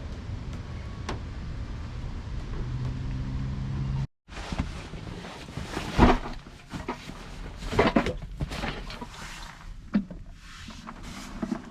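Low steady rumble with faint scattered ticks, then after an abrupt cut a series of sharp knocks, clicks and rustles of objects being handled inside a car.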